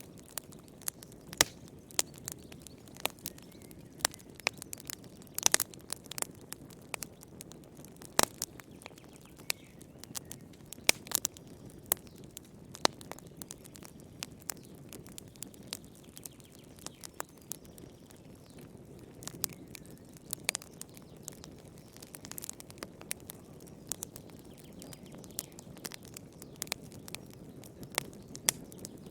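Fire in a fireplace crackling: irregular sharp pops and snaps, a few of them loud, over a low steady rush.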